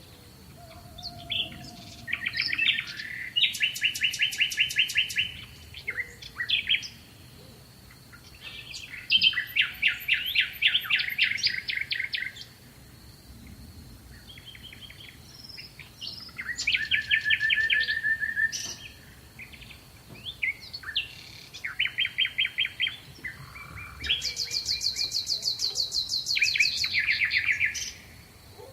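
A small songbird singing a series of rapid trilled phrases, each one to three seconds long with short pauses between them, over a faint steady high-pitched whine.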